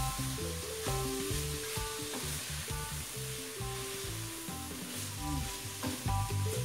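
Chopped bacon, calabresa sausage and vegetables sizzling as they sauté in a stainless steel pot, stirred with a wooden spoon. Background music with a melody plays over it.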